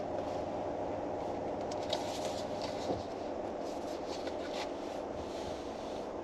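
Steady hum inside a car, with a few brief soft rustles and two light taps in the middle.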